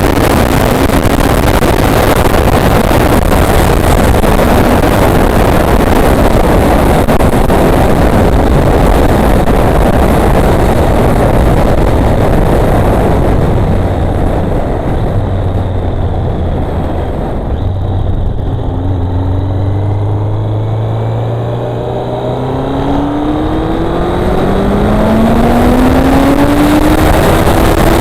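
Motorcycle ridden at speed with heavy wind rushing over the microphone and the engine note held steady underneath. In the second half the wind eases and the engine accelerates through the gears, its pitch climbing and dropping back at each shift, twice near the end.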